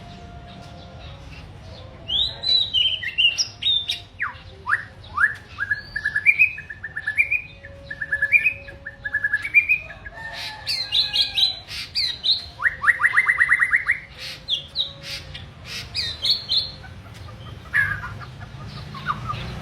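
A songbird singing a varied run of short whistled notes and phrases, with a fast, even trill about two-thirds of the way through.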